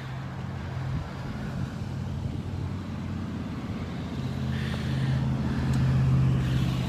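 Cars and trucks driving slowly past in a line, their engines humming steadily, growing louder about two-thirds of the way through as a vehicle comes close.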